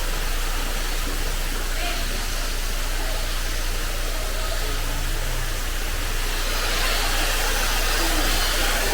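Steady rushing noise with a low hum underneath, holding an even level throughout.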